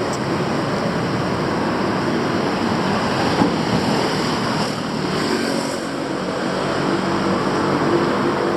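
Steady street traffic noise: a continuous wash of passing vehicles' engines and tyres.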